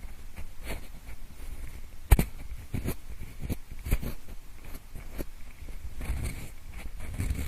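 Pencil scraping and tapping close to the microphone in an ear-cleaning style: irregular short scratches and clicks, the sharpest and loudest one about two seconds in.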